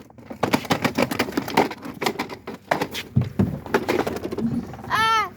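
Rapid, irregular clattering and knocking of plastic toys being handled, with a child's voice calling out once near the end.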